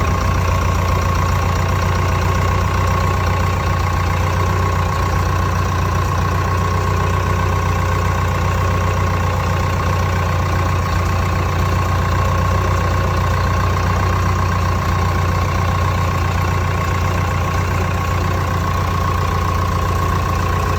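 Massey-Ferguson 188 tractor's Perkins 4.248 four-cylinder diesel idling steadily, with a thin steady whine above the engine note.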